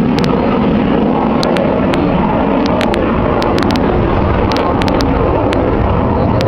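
Aircraft engine noise: a loud, steady rumble with scattered sharp clicks.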